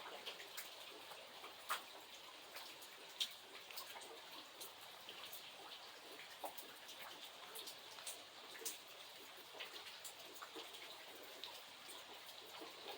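Rain falling: a steady hiss with many separate drops striking at irregular moments, a few sharper hits standing out.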